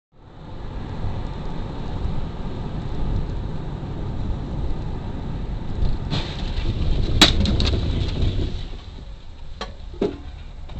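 Steady road and engine rumble of a moving car heard through a dash camera, with a sharp bang about seven seconds in and two smaller knocks a few seconds later.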